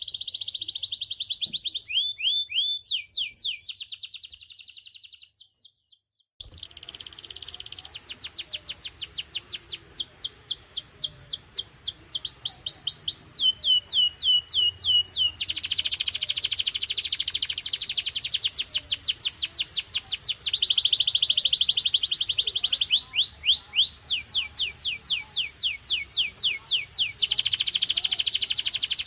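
Domestic canary singing at full power: long rapid trills and rolls of repeated high notes, each run at its own speed, with a brief pause about six seconds in.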